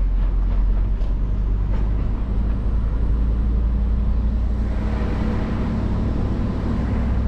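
Heavy lorry's diesel engine running as the truck drives, a steady low rumble. About four and a half seconds in, the engine note strengthens and a rushing noise grows over it.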